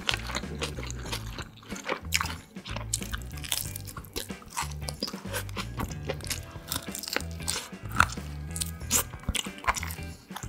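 Close-miked biting and chewing of grilled marinated beef short rib (LA galbi) gnawed off the bone, with many short sharp mouth clicks and crunches.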